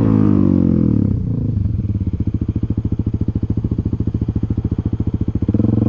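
Dirt bike engine coming down off the throttle, its pitch falling over the first second or so, then idling with an even, regular pulse. It picks up slightly and gets louder near the end.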